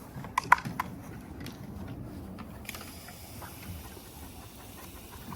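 A few sharp clicks in the first second, then, about halfway through, water starts spraying with a steady hiss.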